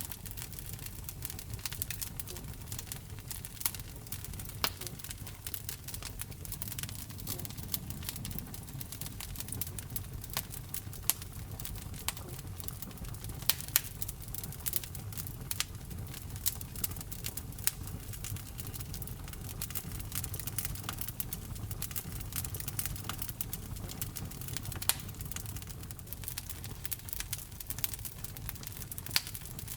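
Wood fire burning in a fireplace: a steady low rumble of the flames with irregular sharp crackles and pops throughout, a few louder snaps among them.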